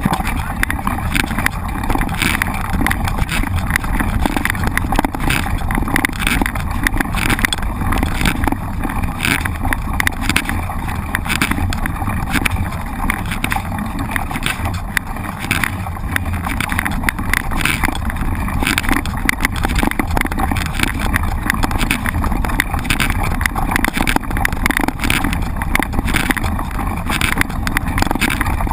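Steady rumbling noise with frequent short rattles and knocks, like a mountain bike ridden over rough ground, heard from a camera mounted on the bike or rider.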